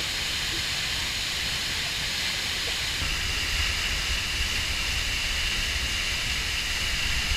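Steady rush of falling water, a constant hiss with a low rumble that grows stronger about three seconds in.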